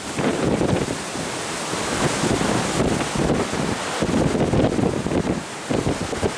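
Wind buffeting the microphone in gusts over the steady rush of sea water alongside a ship under way.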